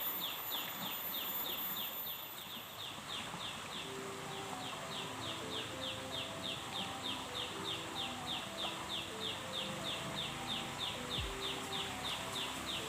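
Rhythmic high chirping from a calling animal, a short downward-sweeping chirp repeated about three to four times a second. Short low whistled notes at varying pitches join in about four seconds in.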